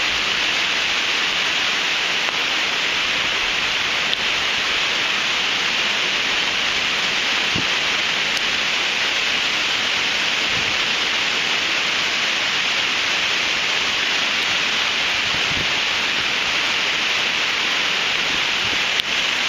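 Hurricane rain and wind making a loud, steady, even hiss.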